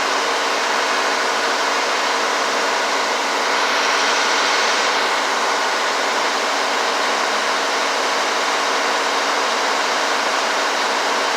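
An engine runs steadily and loudly throughout, briefly a little louder about four seconds in.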